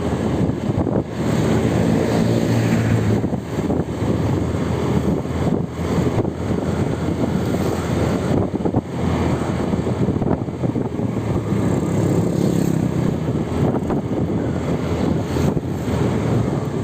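Road vehicle noise: an engine running with rumble and road noise, swelling twice, with wind buffeting the microphone.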